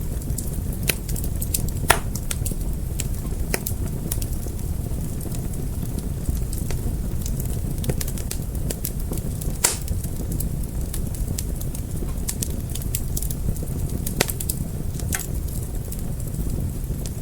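Fire crackling: a steady low rumble of flames with irregular sharp pops and snaps, a few louder ones about two seconds in, near the middle and about fourteen seconds in.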